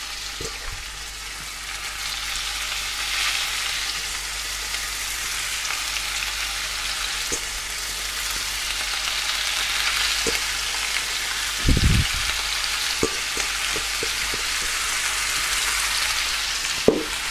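Beef mince sizzling hard as it goes into very hot oil in a frying pan to sear: a steady sizzle that swells a few seconds in as more mince goes in, with a few soft knocks from the pan.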